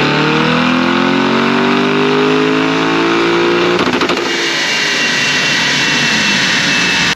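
High-performance car engine at full throttle on a chassis dyno, revs climbing for about four seconds, then a brief rattle of exhaust crackles, then running on with a steady high whine before cutting off suddenly.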